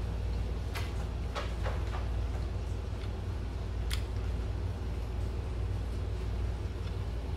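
A person eating a forkful of fettuccine: a few short wet clicks of chewing in the first two seconds and one sharper click about four seconds in, over a steady low hum.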